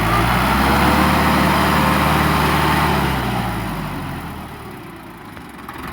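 Tractor engine running loudly and steadily, then fading away over the last two seconds.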